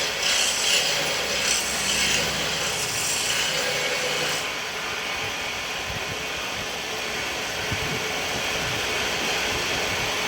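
Hand tool rubbing across wood in about three long strokes, giving way to a steadier, quieter hiss about four seconds in.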